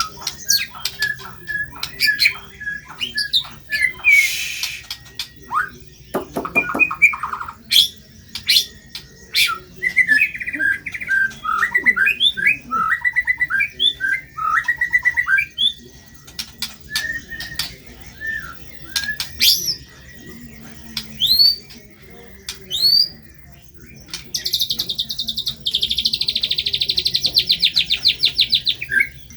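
White-rumped shama (murai batu) singing a fast, varied song of sharp chirps, slurred whistles and harsh notes, with a long, rapid buzzing trill near the end.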